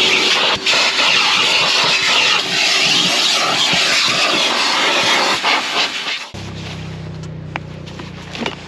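A machine's loud, steady rushing hiss stops abruptly about six seconds in. A lower, steady motor hum continues after it.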